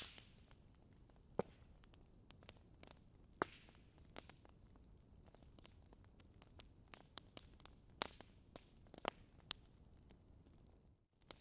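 Wood fire crackling in a fireplace: irregular faint snaps and pops over a low hiss, cutting out briefly near the end.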